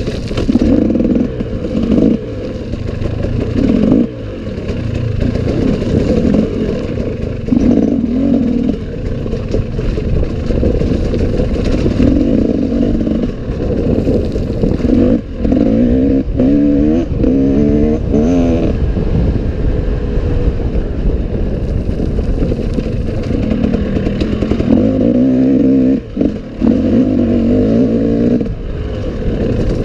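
Enduro motorcycle engine running under load and revving up and down, with clattering and scraping from the bike over rough ground.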